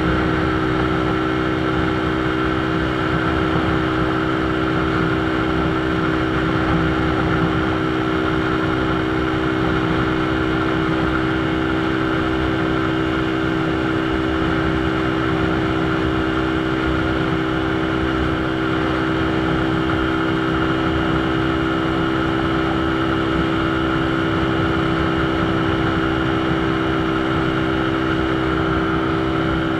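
Motorcycle engine running at steady revs while riding, a constant hum over an even rush of road noise.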